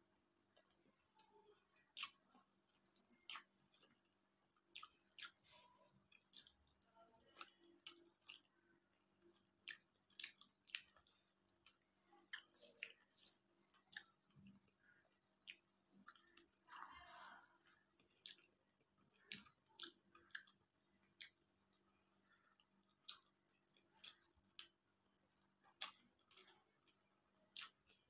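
Close-up chewing and lip smacking of a person eating rice and fish by hand: irregular soft, wet clicks and smacks, one or two a second, over a faint steady hum.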